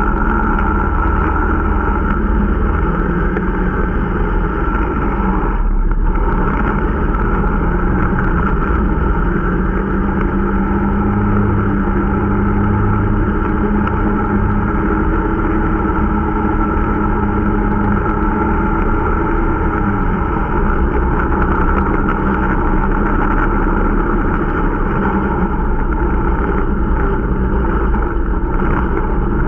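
Irbis Dingo T125 snowmobile's small single-cylinder four-stroke engine running steadily under way during its running-in, its pitch shifting a little with the throttle and a brief dip a little before six seconds in.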